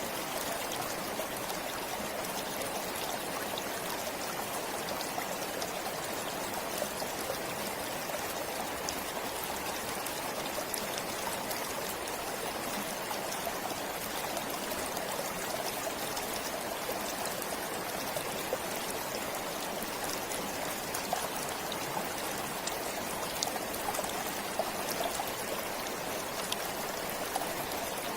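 Forest stream flowing, a steady, continuous rush of water with small splashes scattered through it.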